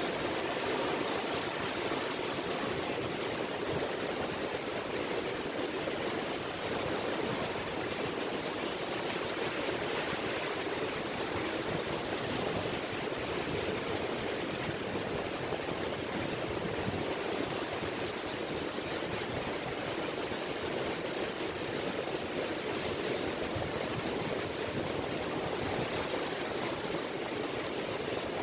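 Small ripple waves washing on a beach shore, a steady, even wash of water with no single breaker standing out.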